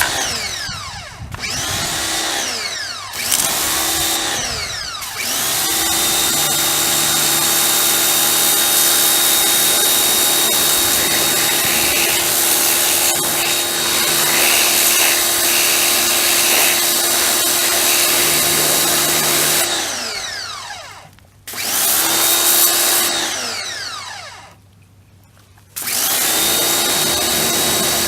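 Electric motor with a steady hum and whine, started and stopped repeatedly. It spins up and winds down in a few short spurts, then runs steadily for about fifteen seconds. It winds down, runs once more briefly, stops, and starts again near the end.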